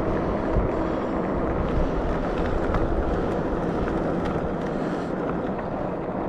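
Wind rushing over the microphone, mixed with the steady running noise of a Rad Rover Step-Thru electric bike ridden at speed.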